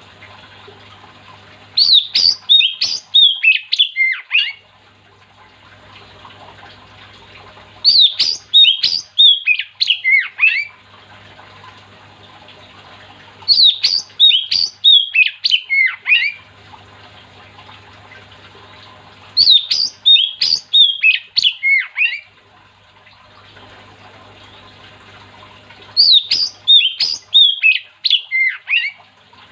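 Oriental magpie-robin (kacer) singing loud bursts of quick whistled, downward-sliding notes, repeating the same phrase five times about every six seconds, with a faint steady hum in the gaps between phrases.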